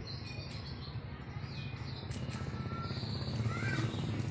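Short bird chirps and whistles, several of them gliding up and down, over a low steady hum.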